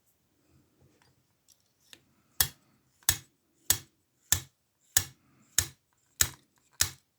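Sharp metallic clicks from lockpicking on a brass and steel ASSA padlock with a Ruko oval cylinder. After a few faint ticks, a regular series of strokes starts about two seconds in, roughly one every 0.6 seconds.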